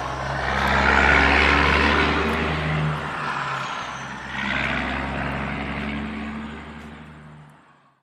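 Engine running steadily, rising and easing in loudness, then fading out over the last two seconds.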